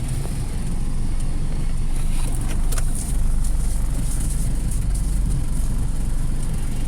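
Ford Escape being driven: a steady low rumble of engine and road noise, getting stronger about three seconds in, with a few light clicks just before.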